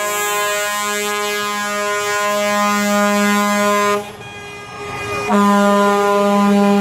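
Truck air horns sounding in a long, steady blast, which breaks off about four seconds in and starts again a little over a second later.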